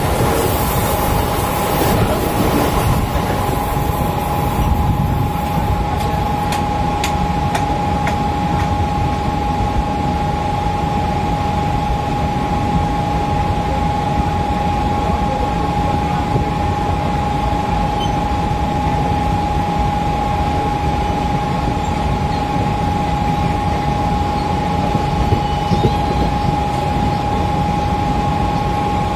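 Mumbai suburban electric local train running at speed, heard from inside the coach by the open door: a steady rumble and wind noise with a steady high tone running through it. In the first few seconds another train rushes past close by on the next track, and a few sharp clicks from the wheels on the rails come a little later.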